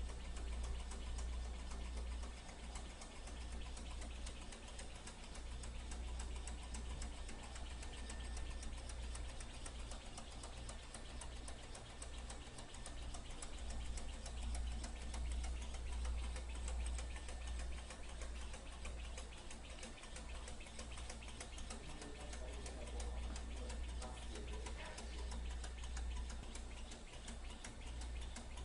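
Small lamina-flow Stirling engine running, its moving parts making a rapid, steady ticking over a low hum.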